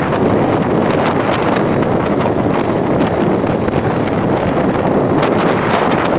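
Loud, steady wind noise rushing over the microphone, with no break or change.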